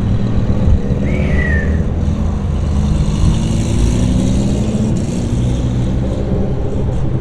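A car engine running loud with a heavy low rumble, its pitch climbing as it accelerates through the first few seconds. A brief high squeal about a second in.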